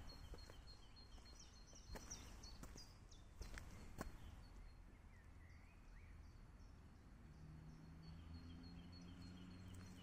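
Near silence: faint, distant bird chirps, short high notes repeated near the start and again near the end, with a few faint clicks and a faint low hum coming in during the last few seconds.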